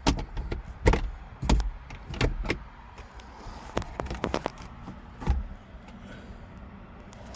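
Sharp clicks and knocks, about eight at uneven intervals over the first five seconds, from car interior fittings being handled.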